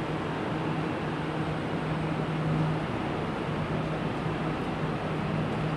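Steady hum and rumble inside an electric commuter train carriage, with a constant low droning tone over an even noise.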